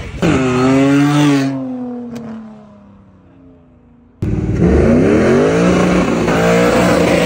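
A classic coupe's engine revs loudly as it pulls out, then fades as it drives away. About four seconds in, an abrupt cut to another car accelerating hard toward the road's edge, its engine pitch climbing, dropping with a gear change, and climbing again.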